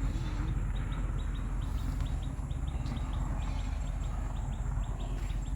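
A bird calling in a quick series of short high chirps, about five a second, over a steady low rumble on the microphone.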